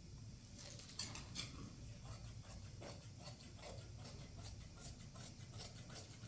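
Faint, irregular small clicks and light knocks of objects being handled, over a low steady hum.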